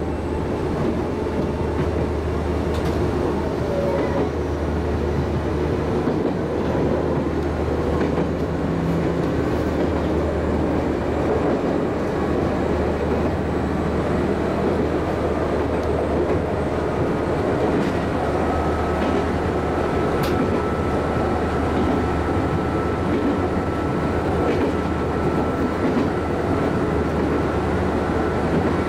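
Chichibu Railway 5000 series electric train running along the line, heard from the cab: a steady rumble of wheels on rail with a few clicks over rail joints. A faint steady high whine comes in about two-thirds of the way through.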